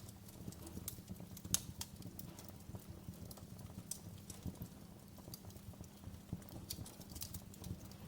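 Wood fire in a fireplace crackling: irregular sharp pops and snaps over a low rumble of burning, with one louder pop about a second and a half in.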